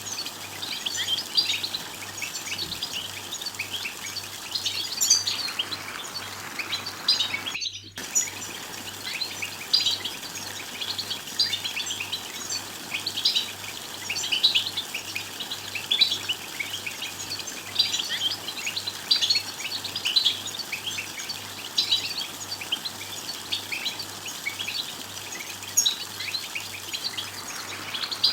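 European goldfinches twittering: a fast, unbroken run of short, high chirps and trills, the excited goldfinch chatter. The sound drops out completely for a moment about eight seconds in.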